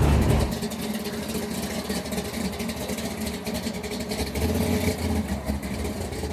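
A car engine idling with a low rumble. The rumble drops away about half a second in and comes back louder about four seconds in.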